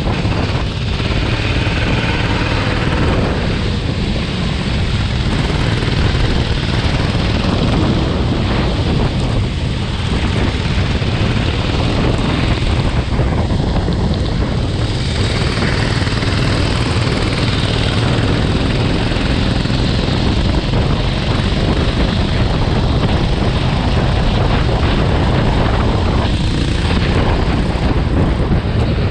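Kart engine running continuously at speed, with wind rushing over the microphone.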